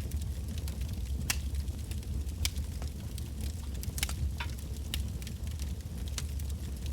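Wood bonfire burning with a steady low rumble and irregular sharp crackles and pops from the burning logs, one every half second or so.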